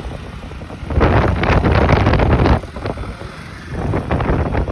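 Road traffic, with a loud vehicle passing close about a second in and fading out after about two and a half seconds; the traffic builds again near the end.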